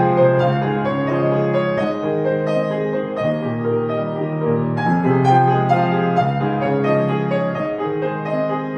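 Piano music: a grand piano playing a continuous flow of melody notes over sustained chords.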